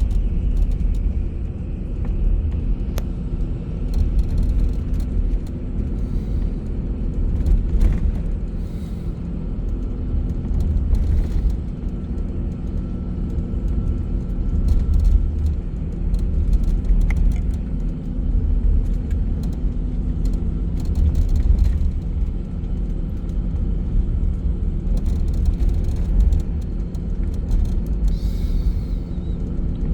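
A moving bus: steady engine and road rumble with occasional small clicks and rattles.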